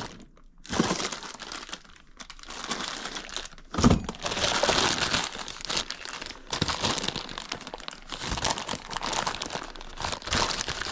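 Crinkling and rustling of packaging as stored sink basket strainers are handled and sorted, with a sharp knock about four seconds in.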